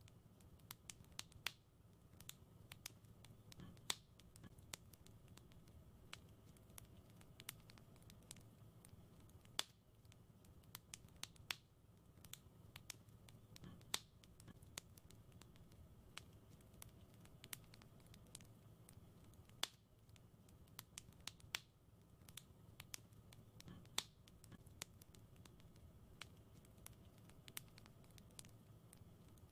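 Wood fire crackling: irregular sharp pops and snaps, several a second with an occasional louder crack, over a faint steady low rumble.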